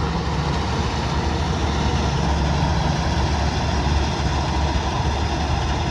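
Kubota DC-105X combine harvester's diesel engine running steadily, a constant low drone.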